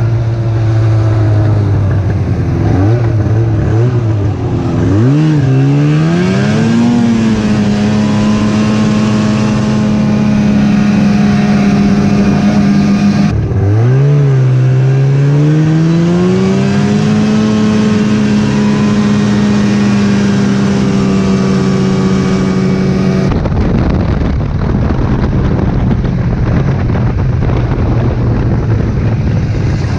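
Snowmobile engine picking up speed from low revs to a steady cruising pitch, easing off once midway and climbing back. About 23 seconds in, the engine tone gives way to a loud, even rushing noise.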